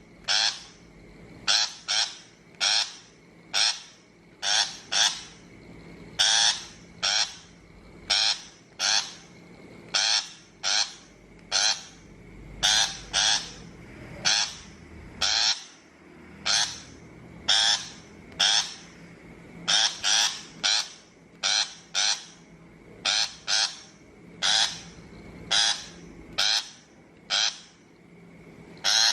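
Shrike calling over and over: short, noisy calls, one to two a second in irregular runs, played as a trapping lure.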